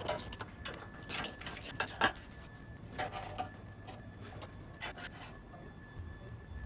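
Irregular clinks, knocks and scraping rubs from tools and metal parts being handled during repair work, with one sharper knock about two seconds in.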